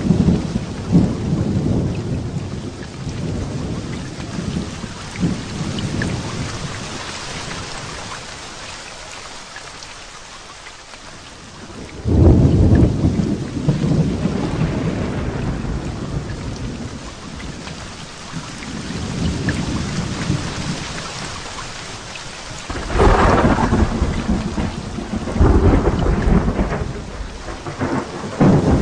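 Heavy rain falling steadily through a thunderstorm, with repeated rolls of thunder rumbling. The thunder dies down for a few seconds, then a sudden loud crash about twelve seconds in, and more loud peals near the end.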